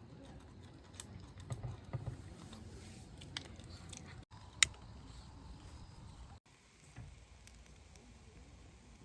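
Faint, scattered clicks and taps over low background noise, with one sharp click about four and a half seconds in.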